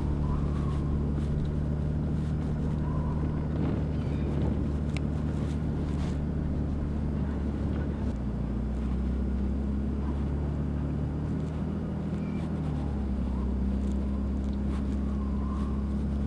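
Toyota Tacoma pickup driving, with a steady engine and road hum. The hum shifts in pitch about eight seconds in and settles back about thirteen seconds in.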